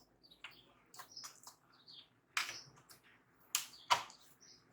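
Scattered light clicks and taps from handling laptop parts during reassembly, with a few sharper clicks in the second half. A bird chirps faintly in the background.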